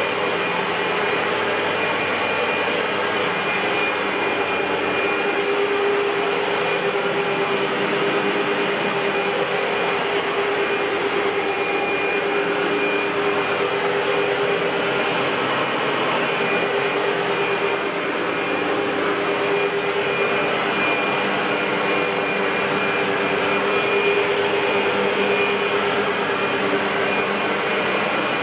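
Century 400 U-Vac bagged commercial upright vacuum cleaner, a rebadged German SEBO, running steadily with an even motor whine.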